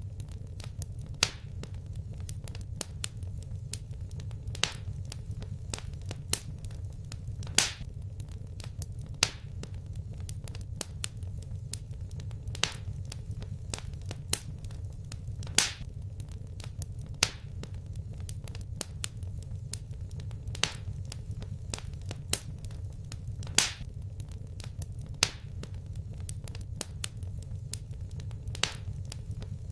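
Fireplace wood fire crackling: sharp, irregular pops every second or two over a steady low rumble of the flames.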